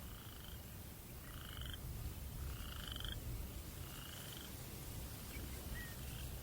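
A frog calling at night in short trilling calls about once every second and a bit, fading after about four and a half seconds, over a low rumble of breeze.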